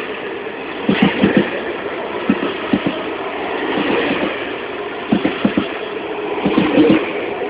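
A passing train: a steady rolling rumble with groups of short knocks as its wheels cross rail joints, about a second in, around two and a half seconds, and again from about five seconds in.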